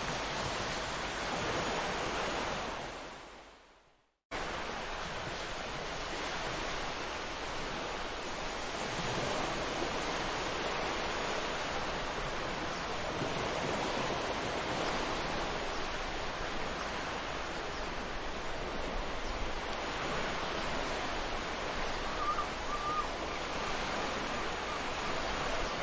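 Ocean surf breaking and washing onto a sandy beach, a steady rush of waves. A few seconds in it fades out to a moment of silence and then cuts straight back in; near the end a faint short call sounds over the surf.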